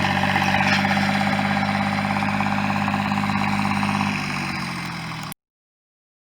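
Tractor engine running steadily, then throttled back and quieter about four seconds in, dropping slightly in pitch. The sound cuts off abruptly a little after five seconds.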